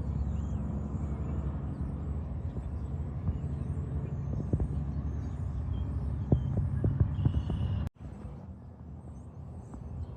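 Interstate highway traffic with heavy trucks passing, a steady low rumble of engines and tyres. The sound cuts out abruptly about eight seconds in and comes back quieter.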